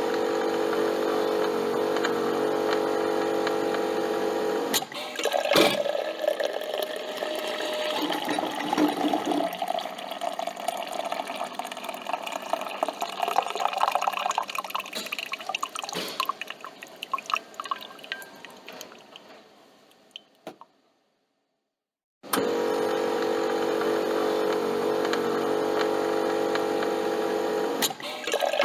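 Coffee machine's pump hums steadily, then coffee streams and drips into the cup, gradually thinning to a trickle and stopping. After a short silence the pump hum starts again.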